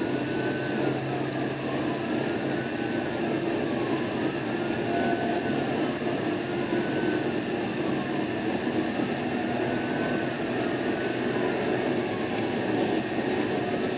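Police siren wailing, rising and falling about every two seconds, over steady road and engine noise from a patrol car in pursuit.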